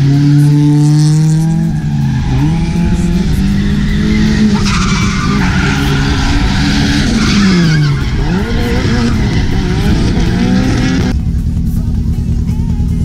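Toyota AE86 Corolla's four-cylinder engine revving up and down as the car drifts, with tyres skidding and squealing for about three seconds midway. About two seconds before the end the sound changes abruptly to a steady low engine drone.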